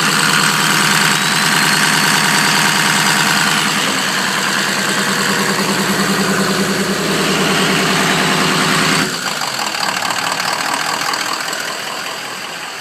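Ford 6.0L Power Stroke V8 turbo-diesel held at raised revs during a scan-tool boost test, with a faint rising whistle over the engine note. About nine seconds in the revs drop suddenly and it settles back to idle.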